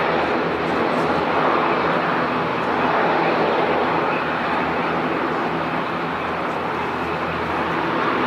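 Airplane engines running steadily: a broad, even rush with a low steady hum underneath.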